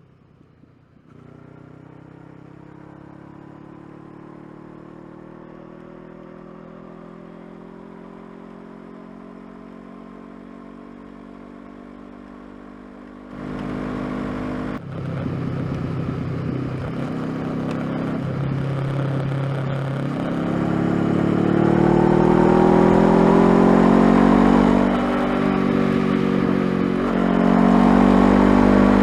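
Honda CBR500R's parallel-twin engine pulling, its pitch climbing slowly and quietly at first. About halfway through it gets suddenly louder with wind rush, then revs up in steps with the pitch falling back between them as it shifts through the gears.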